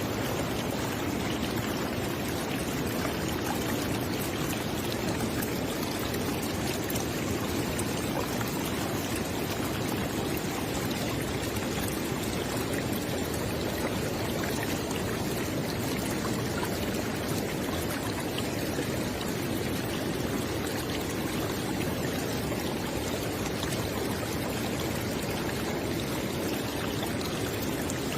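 Flowing river water: a steady, even rush of running water with no change in level.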